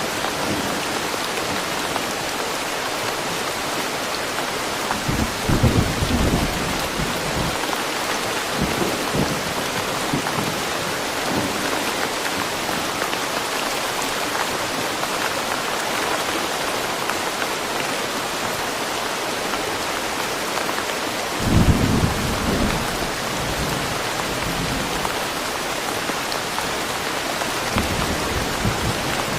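Steady heavy rain falling in woodland, with low thunder rumbling twice: about five seconds in and again a little past twenty seconds.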